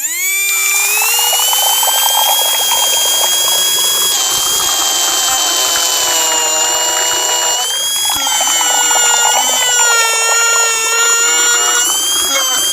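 Small motor of a DIY miniature machine starting abruptly and spinning up in the first second into a high, steady whine, with a dense mechanical rattle.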